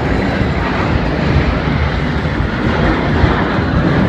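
F-16C fighter jet engine noise: a loud, steady rumble and rush that holds without a break.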